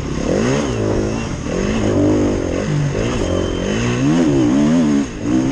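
KTM 350 EXC-F's single-cylinder four-stroke engine heard close up from the rider's helmet, revving up and falling back again and again as the throttle is worked over the dirt track. The engine drops off briefly about five seconds in.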